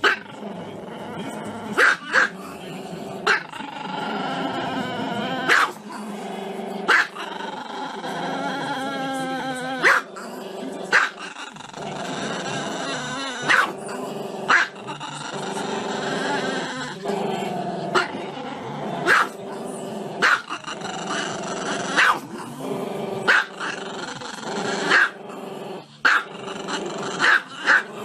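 A small dog howling with its muzzle raised: long wavering cries broken by short sharp yelps every second or two.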